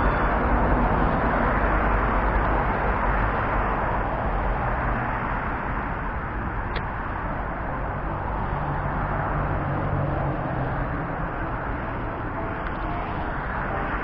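Steady road traffic noise, a continuous rumble and hiss, with a single sharp click about halfway through.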